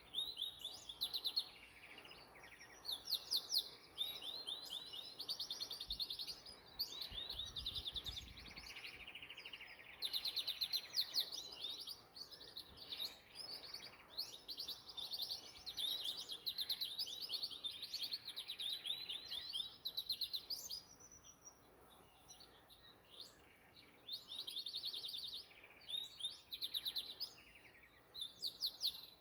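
Canary singing: long phrases of rapid trills and rolls, broken by short pauses.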